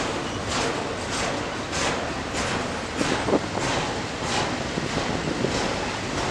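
A train rolling past, a steady rush with regular beats about every 0.6 s, with wind on the microphone.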